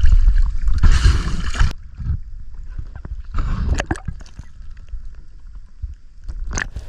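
Water sloshing and gurgling around a swimmer at the surface, loudest for the first second and a half, then quieter with a few short splashes.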